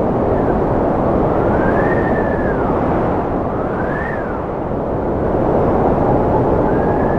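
Strong wind blowing in a steady rush, with a howling whistle that rises and falls in pitch every second or two.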